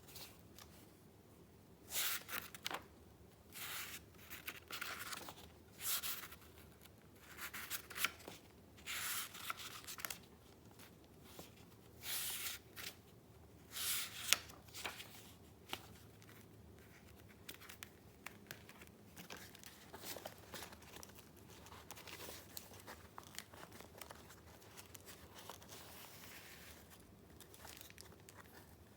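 Paper being handled: a quick series of short rustles and crinkles for about the first half, then only faint, soft rustling.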